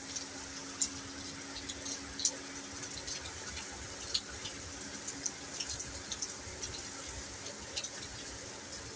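Steady rain pouring down, an even hiss with scattered sharp drip ticks.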